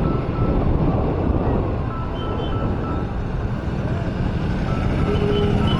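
City road traffic heard from a moving vehicle: a steady low rumble of engine and tyre noise, with faint short high tones coming and going.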